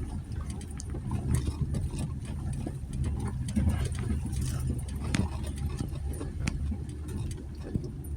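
2020 Jeep Gladiator's 3.6-litre V6 running at low speed with a steady low hum, while the truck bumps over a rough dirt trail and the body and suspension give off scattered clicks and knocks.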